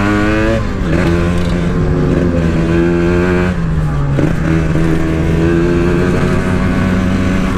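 Two-stroke motorcycle engine (a Kawasaki Ninja engine in a custom frame) running under way at a steady pace, its pitch rising slightly at the start and dipping briefly about halfway through.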